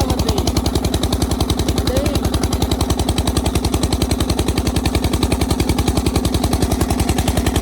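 Krimo 35 hp single-cylinder oil engine running at a steady speed, its firing strokes coming in a quick, even beat. The speed is held by its newly adjusted rpm regulator, which the owner says works perfectly.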